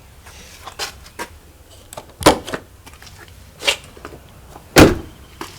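A series of sharp clunks and clicks of latches and body panels on a Ford Excursion stretch limo being worked, as it is opened up to get at the engine. The two loudest clunks come about two seconds in and near the end.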